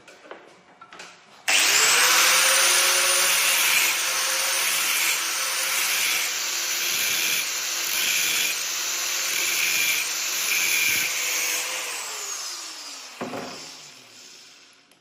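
Electric grinder switching on abruptly and running steadily, its note dipping about once a second as steel is pressed against it, then switched off and spinning down with a falling whine.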